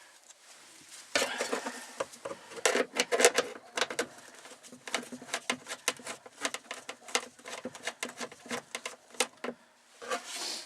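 Small ratchet wrench and metal screws clicking and clinking as the fuel pump's mounting bolts are turned out. It is a quick, irregular run of sharp metallic clicks that starts about a second in.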